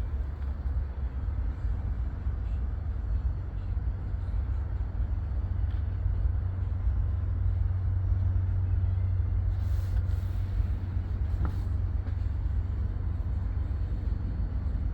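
Diesel-electric freight locomotives idling, a steady low rumble that swells slightly midway.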